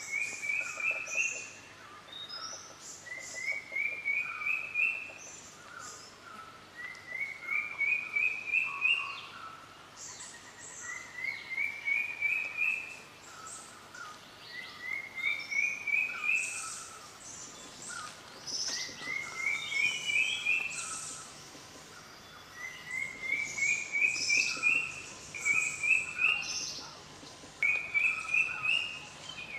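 Forest birds singing: one bird repeats a short, quickly rising run of notes every few seconds, with other birds chirping around it.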